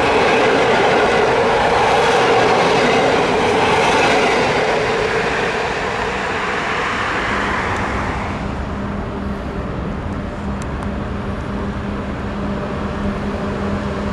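Train running through the station, loud for the first several seconds and then fading away, leaving a steady low hum.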